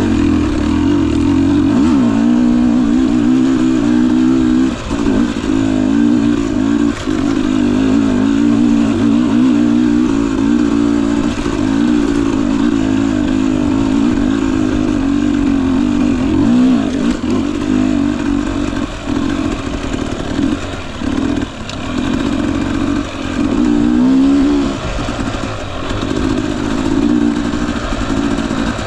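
Husqvarna TE 250i's single-cylinder fuel-injected two-stroke engine running as the dirt bike is ridden slowly over a muddy trail, the revs rising and falling constantly with the throttle and dropping off briefly a few times.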